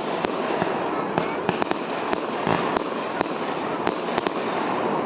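Fireworks display: a dense crackling with many sharp bangs in quick succession.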